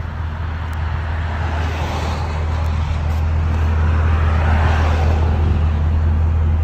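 Ford Crown Victoria Police Interceptor 4.6L V8 idling steadily through a true dual exhaust with an H pipe and Flowmaster Flow FX mufflers: a deep, not too loud idle that grows somewhat louder over the first few seconds.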